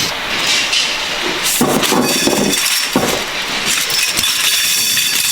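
Metal knocking and clanking, with a high ringing of struck metal between two heavier knocks.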